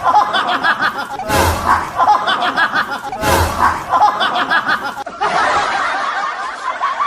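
Laughing sound effect: a burst of snickering laughter repeated almost identically about every two seconds, then a stretch of continuous giggling laughter from about five seconds in.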